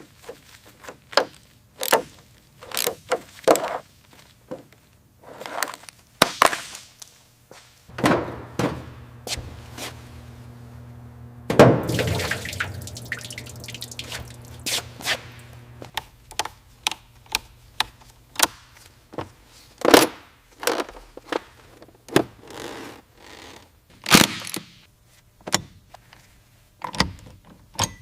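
Irregular knocks, clicks and clanks of hand work on parts, a couple of them ringing briefly. A low steady hum runs through the middle stretch, with a louder rushing burst near its middle.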